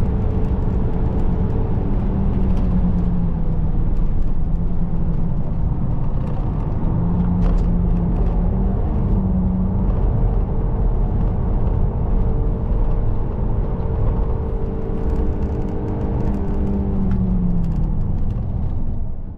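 Hyundai Grandeur driving, with a steady engine drone and road rumble. The engine's pitch drifts slowly up and down and falls away near the end, before the sound cuts off suddenly.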